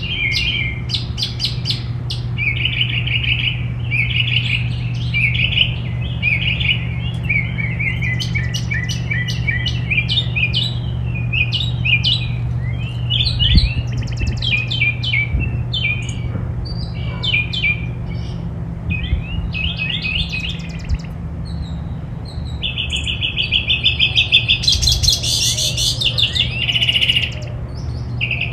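Songbirds chirping and singing in quick trills and runs of repeated notes, over a steady low hum.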